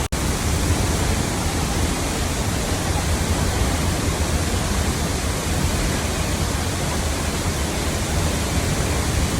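Steady rush of a large waterfall, a dense, even wash of falling water with a heavy low rumble. It cuts out for an instant just after the start.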